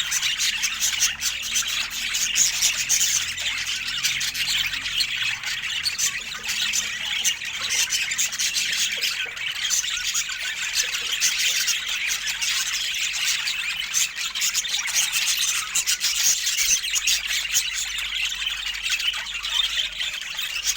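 Budgerigars chattering, chirping and squawking without a break, a busy stream of quick high notes.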